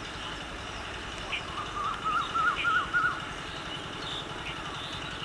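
A bird calling: a quick run of five or six warbling whistled notes about two seconds in, with a few faint chirps, over a steady low rumble.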